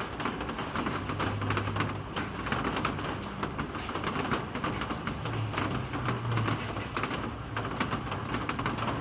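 Rain falling, a dense irregular patter of drops striking hard surfaces. Twice a short low hum rises out of it.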